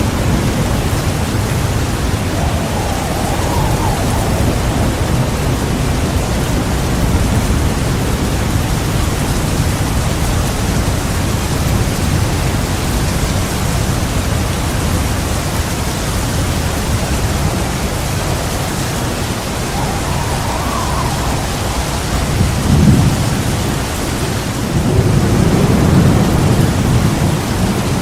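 Heavy rain pouring steadily through a thunderstorm. A sharp clap of thunder comes near the end, followed by a few seconds of low rumbling.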